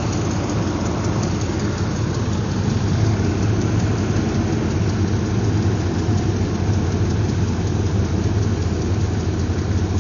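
Dodge pickup truck engine idling steadily, a constant low hum.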